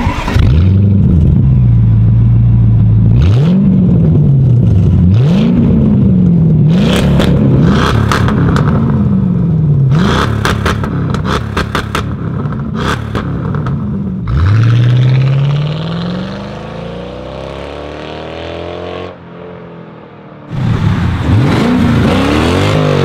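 Lorinser-tuned Mercedes CL 500 V8 revved repeatedly at standstill in quick blips that rise and fall, with sharp pops between them. Later it pulls away under hard acceleration with the pitch climbing, eases off briefly, then accelerates again.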